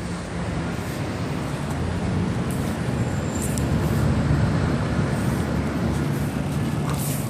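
Steady street traffic noise: a continuous rumble of passing vehicles with a low engine hum.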